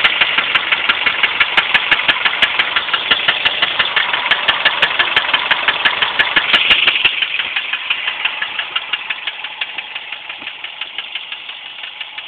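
Subaru EJ25 flat-four engine idling rough with a loud, regular clicking knock about four times a second, which the owner suspects is a spun bearing. About seven seconds in the sound drops in level and the knocking carries on more faintly.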